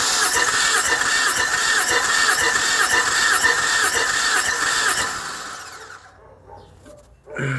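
Car engine cranked on its electric starter with a compression gauge screwed into one spark-plug hole, a compression test, with a steady whining pulse as each compression stroke comes round. It stops about five to six seconds in.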